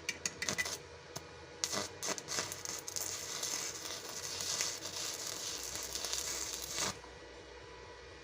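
Electric welding arc: a few short crackling strikes, then the arc held for about five seconds with a dense, high crackling hiss that cuts off suddenly.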